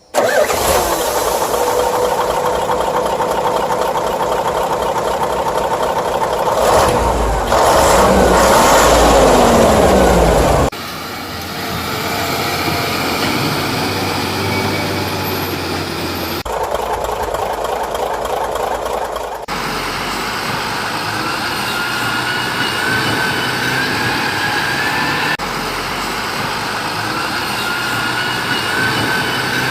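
Vehicle engine sounds in several abruptly cut segments, loudest about seven to ten seconds in, where a pitch sweeps downward.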